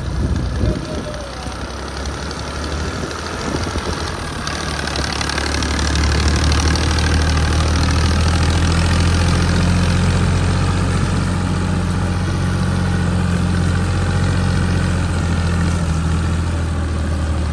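Tractor diesel engine running, growing louder over the first few seconds and then holding a steady, heavier note.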